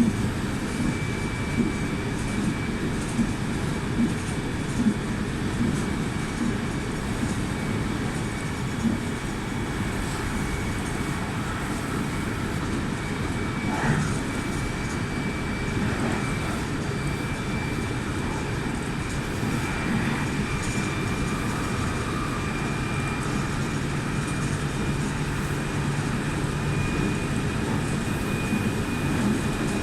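Meitetsu 2000 series μSKY electric multiple unit running at speed, heard from on board: a steady rumble of wheels on rail, with a few knocks of rail joints in the first ten seconds and a faint steady high whine.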